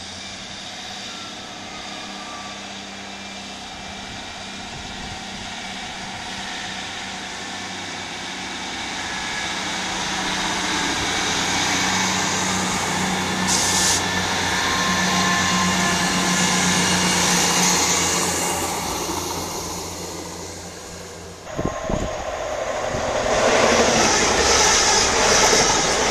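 Northern Class 158 diesel multiple unit moving slowly past, its diesel engines humming steadily and growing louder as it passes, then fading. About 21 seconds in, a TransPennine Express multiple unit bursts past at speed with a loud rush of wheel and air noise and knocks over the rail joints.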